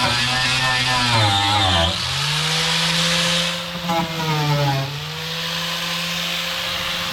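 Handheld electric power tool running, its motor pitch wavering, rising about two seconds in, dipping briefly a little later and then holding steady.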